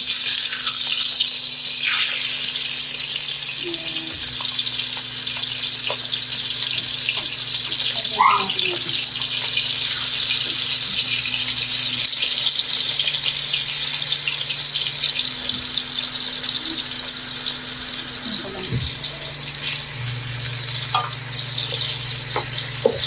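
Chicken breast pieces frying in hot oil in a pan: a steady sizzle with fine crackling.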